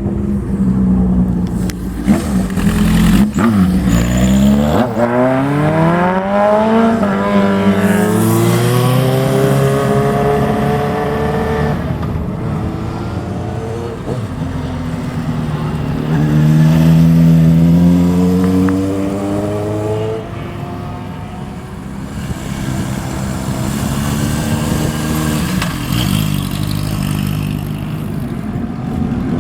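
Motorcycles riding out one after another, their engines revving and pulling away with the pitch climbing in several sweeps. The loudest pass is about two-thirds of the way through.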